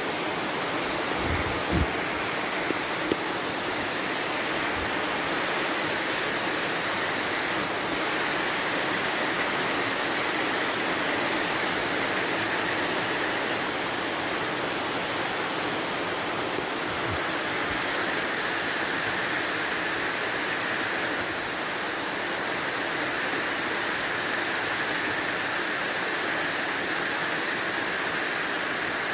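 Heavy rain pouring down, a steady even hiss of rainfall, with a few sharper taps in the first few seconds.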